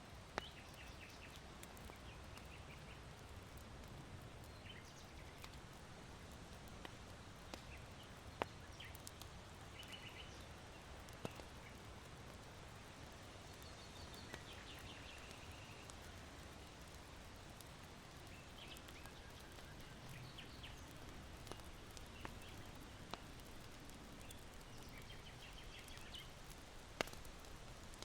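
Charcoal fire in a sunken hearth giving a few sharp, isolated pops over a steady soft hiss of wind, while small birds chirp in short high bursts several times. The whole mix is faint.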